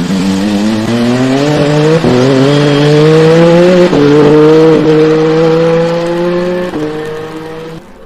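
Peugeot 9X8 hypercar's twin-turbo V6 accelerating hard, its pitch climbing and then stepping down at upshifts about two and four seconds in. It holds a high, steady note before easing off and cutting off sharply near the end.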